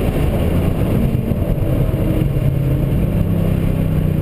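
Ford Mustang's engine running under load, heard from inside the cabin, its pitch rising about two seconds in as the car accelerates.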